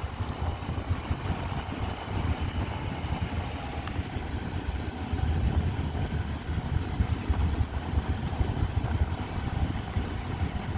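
Mercury Montego being driven: a steady low rumble of engine and tyres on the road, with the loudness rising and falling unevenly.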